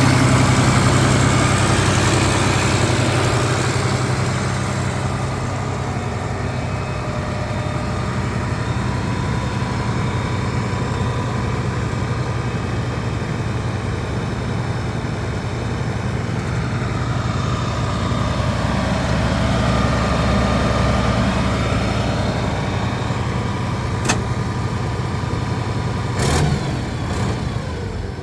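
International 1086 tractor's six-cylinder diesel engine running, easing down from higher revs to a steady idle a few seconds in, then picking up slightly again later. A sharp click sounds near the end, followed a couple of seconds later by a short knock.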